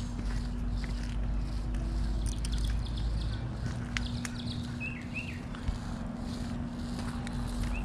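A bird chirping a few short notes about five seconds in, over a steady low rumble and a constant hum, with light clicks here and there.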